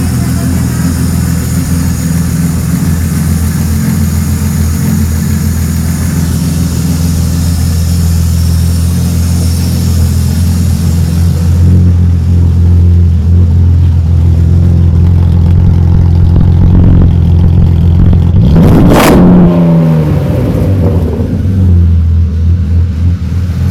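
BMW E30's swapped-in M52B28 2.8-litre straight-six, on its first start-up through an Eisenmann exhaust, running steadily. About three-quarters of the way through, a short sharp blip comes and the note falls back.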